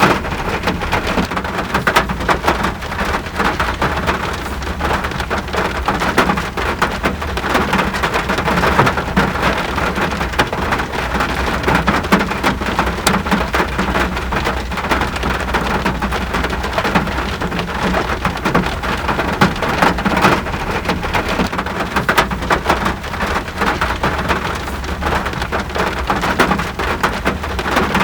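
Steady heavy rain striking a surface: a continuous hiss thick with close, individual drop hits, over a constant low rumble.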